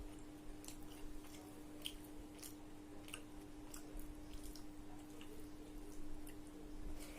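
Close-miked chewing of food: irregular short mouth clicks, roughly two a second, over a faint steady low hum.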